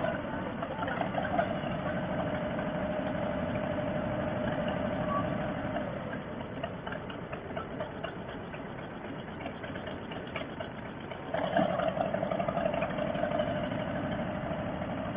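Harley-Davidson Softail Fat Boy's V-twin engine running at low speed. It softens for a few seconds midway and picks up again about eleven seconds in.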